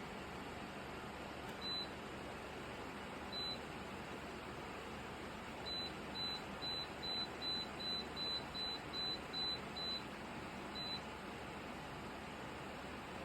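A Dreo tower fan's control beeping at each button press: two single beeps, then a quick run of about a dozen beeps at roughly two to three a second, then one more, over the steady hiss of the fan's airflow.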